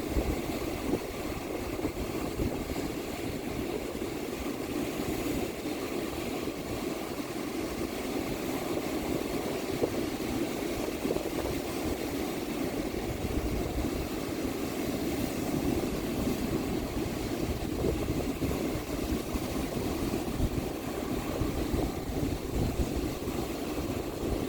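Ocean surf washing steadily onto a beach, a continuous rushing noise, with wind buffeting the microphone in low, uneven rumbles.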